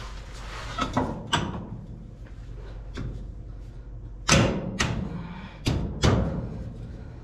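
Metal clanks and knocks as the transmission crossmember and mount are shifted and fitted into place under the truck: a scattered series of sharp knocks, the loudest about four and six seconds in.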